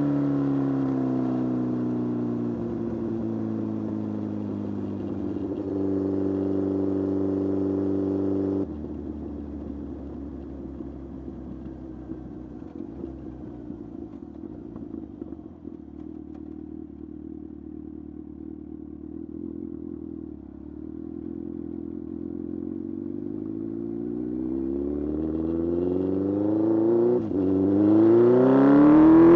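Kawasaki Z1000 motorcycle's inline-four engine on the road. Its revs fall as it slows, then drop off abruptly about nine seconds in and stay low and steady for a long stretch. Near the end the revs climb again as it pulls away, with a short break for a gear change.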